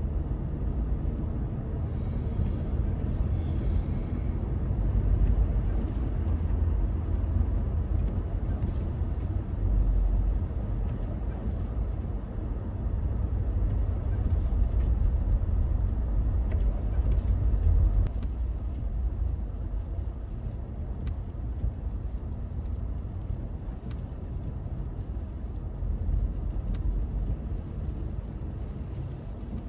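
Car driving along a road, heard from inside the cabin: a steady low engine and tyre rumble that swells and eases slightly, with a few faint clicks.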